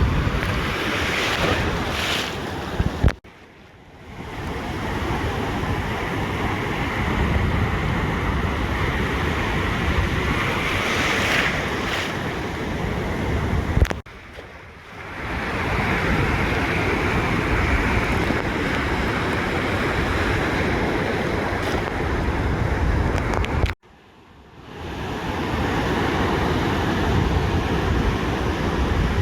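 Ocean surf washing steadily onto a beach, with wind on the microphone. The sound cuts out abruptly three times and each time fades back in over a second or two.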